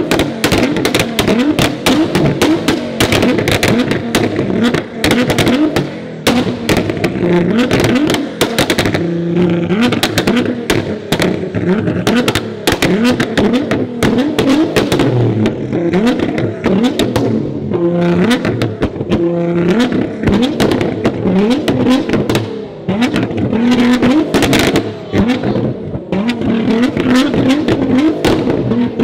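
Tuned Nissan GT-R R35's twin-turbo V6 being revved hard and repeatedly while stationary, with a near-constant crackle of exhaust pops and bangs as flames shoot from the exhaust.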